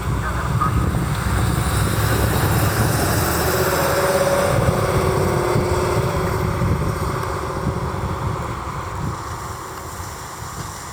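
A motor vehicle drives past. The engine and road noise build to a peak about four seconds in, then fade away.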